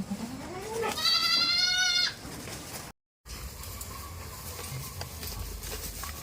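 A goat bleating once, a loud, wavering call lasting about a second, starting about a second in. After a brief dropout there is only quieter farmyard background with a low hum and a few faint ticks.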